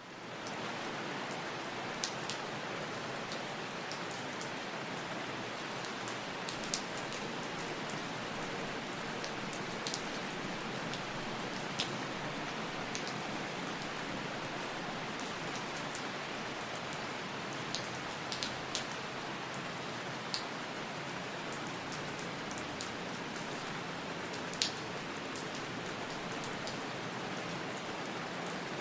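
Steady rain falling, an even hiss with scattered sharper drops hitting close by, fading in at the start.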